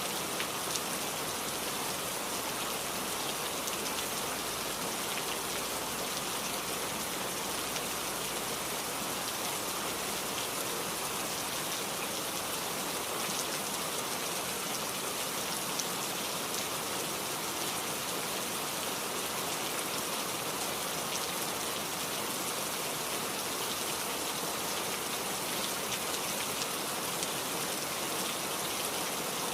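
Heavy rain falling steadily, a dense even hiss with fine scattered drop patter and no letup.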